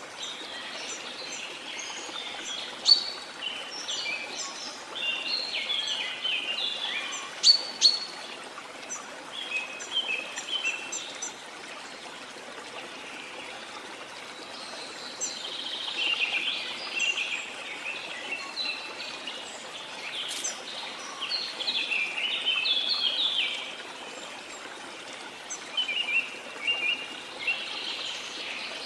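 Jungle birds chirping and trilling in quick runs of short notes, with a few sharp calls standing out, over the steady hiss of a waterfall. The birds fall quieter for a few seconds near the middle, leaving mostly the water.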